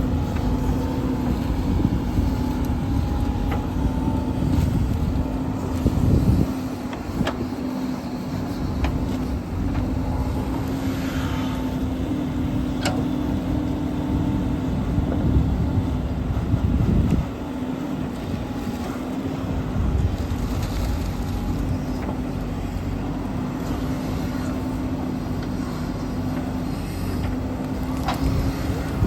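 Tractor diesel engine running steadily: a constant hum over a heavy low rumble that drops off briefly about six seconds in and again around seventeen seconds.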